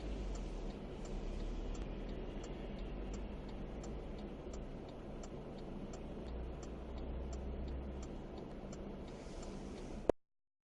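Road noise and a steady low rumble inside a moving car's cabin, with a turn-signal indicator ticking about twice a second. The sound cuts off suddenly near the end.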